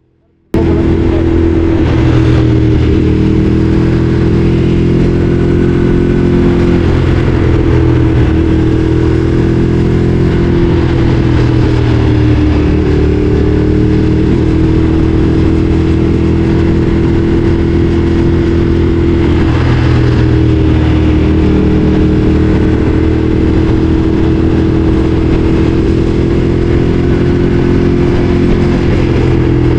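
Ducati Streetfighter 848's L-twin engine running at a steady cruising pace, its pitch rising and dipping gently a few times with the throttle. The sound starts abruptly about half a second in.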